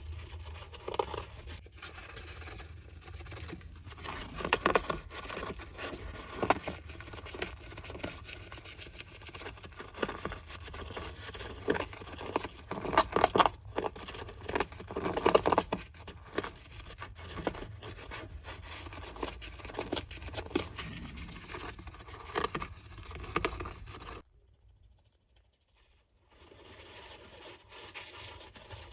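Golden hamster digging and scratching in loose bath sand: irregular bursts of scraping and pattering strokes, busiest about four seconds in and again around twelve to sixteen seconds, with a short pause a few seconds before the end.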